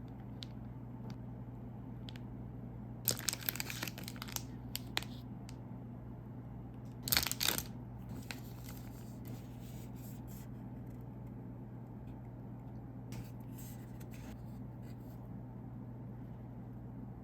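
A snack wrapper being torn open and crinkled by hand: bursts of tearing and rustling about three seconds in and a louder one around seven seconds, with softer rustling later, over a steady low hum.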